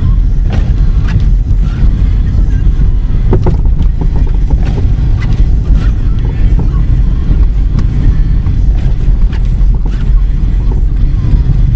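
Blizzard wind buffeting the microphone: a loud, steady, low rumble with gusty fluctuations.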